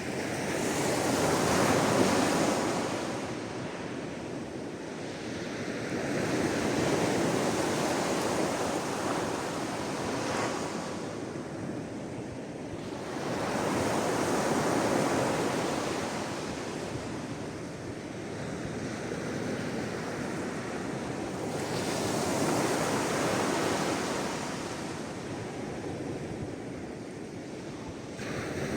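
Sea waves breaking and washing ashore. The rush of surf swells and fades in slow surges, about five over the span.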